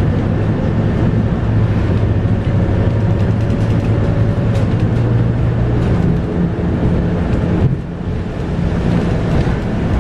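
Scania K230UB bus under way, its 8.9-litre five-cylinder Scania DC9 diesel and ZF Ecomat six-speed automatic gearbox droning steadily, with a faint whine that rises slightly and fades. The sound dips briefly about three-quarters of the way through, then the engine picks up again.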